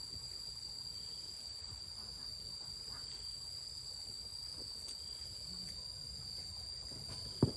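Insects chirring in a steady, unbroken high-pitched drone, with one sharp knock near the end.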